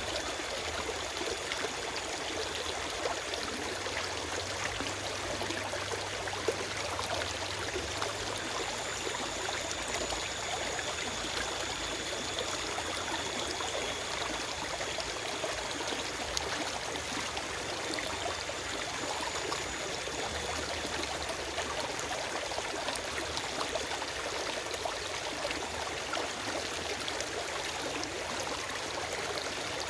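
Forest stream flowing steadily over rocks: an even rush of running water with small trickles and splashes.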